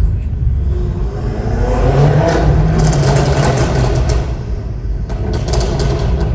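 BMW F10 M5 Competition's twin-turbo V8 accelerating hard. Its pitch rises from about a second in and then holds, with quick clusters of exhaust pops and crackles near the middle and again later.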